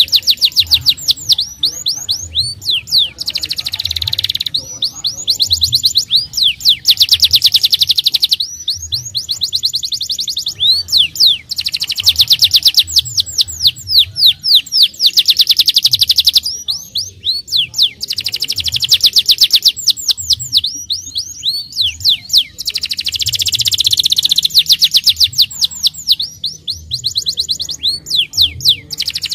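Canary singing in long, rapid trills: phrases of fast repeated high notes lasting a few seconds each, with brief breaks between them.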